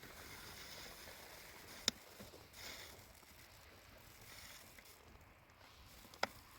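Faint rustling hiss that swells and fades, with two sharp clicks, about four seconds apart.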